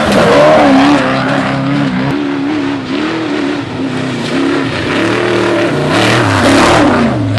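Off-road trophy truck engine running hard, its pitch rising and falling as the throttle works. A rush of tyre and gravel noise swells near the end.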